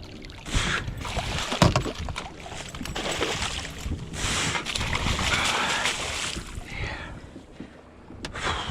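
Wind on the microphone and water noise aboard a small fishing boat, coming in swells, with a sharp knock about a second and a half in.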